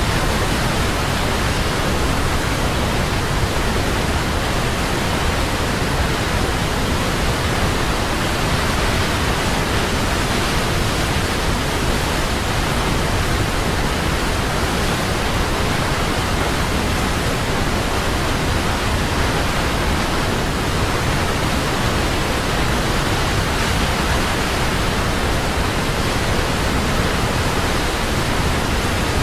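Large waterfall: water pouring down, a steady, unbroken rush of noise.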